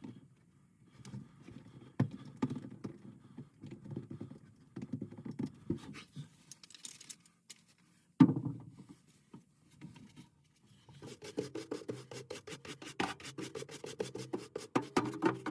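Hand scraping and brushing strokes, with one sharp knock about eight seconds in, then fast, even scrubbing strokes, about five or six a second, in the last few seconds.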